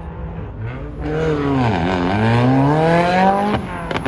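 A car engine revving hard as it drives past. Its note drops, then climbs steadily under acceleration, with a short break near the end like a gear change.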